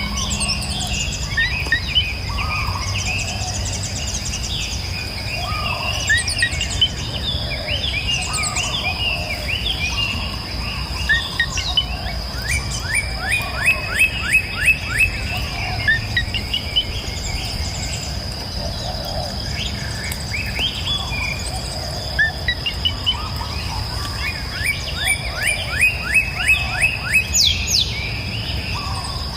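Several songbirds chirping and singing, with quick runs of repeated notes about five a second around 13–16 s and again near the end, over a steady high-pitched hum and a low rush like flowing river water.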